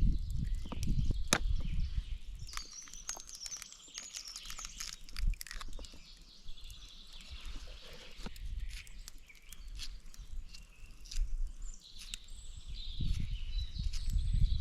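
Small birds twittering in high, quick chirps a few seconds in and again near the end, over outdoor ambience with scattered clicks and a low rumble at the start and end.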